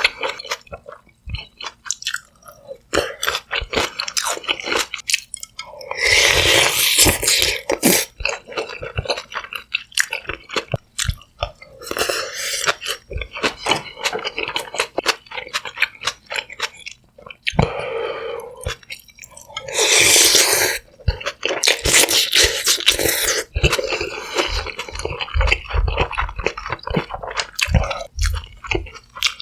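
Close-miked chewing of sundae gukbap (blood sausage and rice soup), with dense wet mouth clicks and crunches. There are two longer, louder stretches, about six and twenty seconds in.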